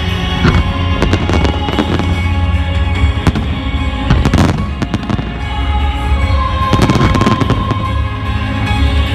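Fireworks bursting and crackling over loud music with long held notes. A dense cluster of bangs comes about four and a half seconds in, and another near seven seconds.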